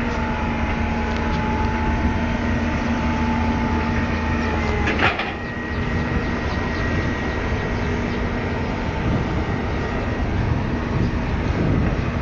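Excavator engine and hydraulics running steadily, with a held whine over the rumble. A sharp clank about five seconds in, after which the whine changes pitch.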